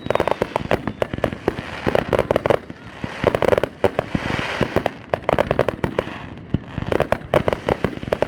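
Aerial fireworks display going off in a dense barrage of rapid bangs and pops. The bangs thin out from about three to six seconds in, where a hissing crackle is heard, then pick up again.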